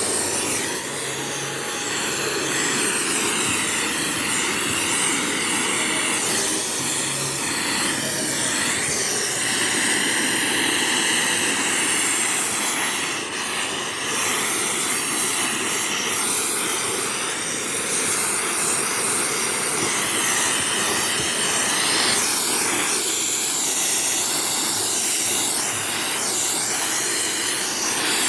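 Vacuum cleaner running steadily, its whine drifting in pitch as the nozzle works over the upholstery of a cinema seat.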